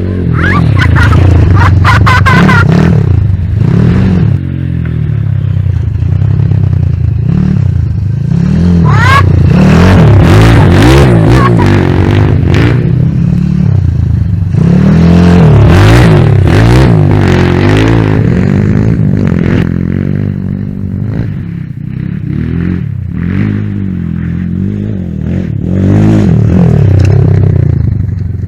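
Kayo TT140 pit bike's 140 cc four-stroke single-cylinder engine being ridden, revving up and falling back again and again, then easing off for several seconds before picking up once more.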